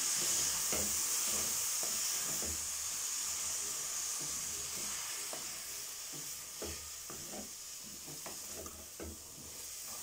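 Broccoli florets sizzling in a hot metal kadai while a wooden spatula stirs them, with irregular knocks and scrapes of the spatula against the pan. The steady hiss, from a little water just added to the hot oil and spices, slowly dies down.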